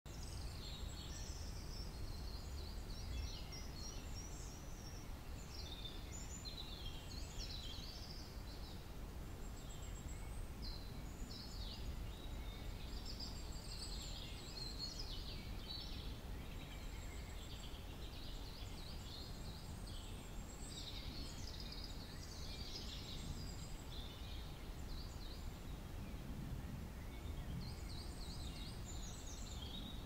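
Small birds singing and calling, with high twittering phrases coming and going throughout, over a steady low rumble of outdoor background noise.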